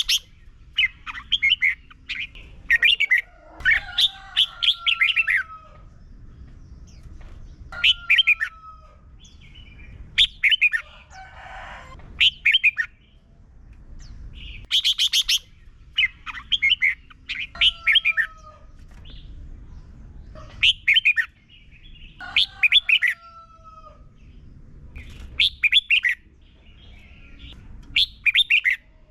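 Red-whiskered bulbul singing short, bright, chattering phrases again and again, every second or two, with a few thin falling whistles among them. A brief rustle comes near the middle.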